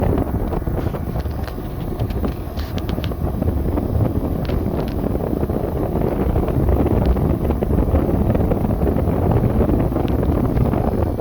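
Samsung window air conditioner running, its fan moving air with a steady rushing noise, with a few faint ticks a few seconds in.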